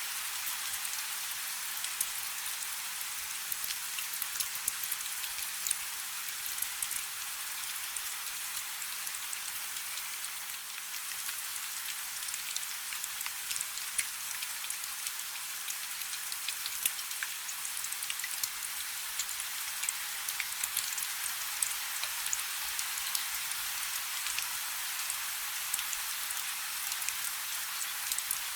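Light rain falling steadily: an even hiss full of many small, sharp drop ticks.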